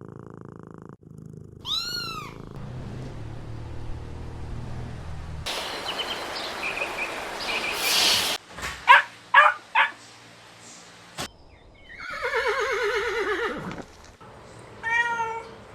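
A string of separate animal calls cut one after another. There is a short arched call, then a noisy stretch, then three or four quick rising calls, then one long call falling in pitch, and a last short arched call near the end.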